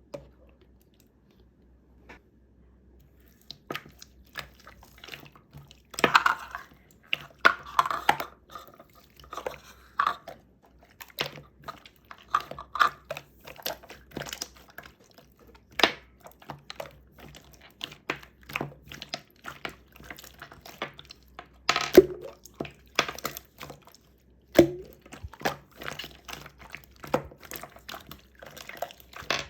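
Scattered sharp clicks, knocks and clinks of cups and containers being handled while making a blue lemonade, a few of the clinks ringing briefly, with some liquid and crinkling sounds.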